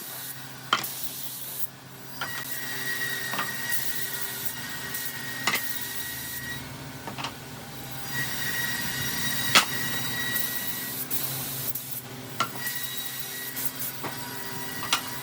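Woodworking machinery running steadily, with an on-and-off high whine and scattered sharp knocks of wood against wood or metal.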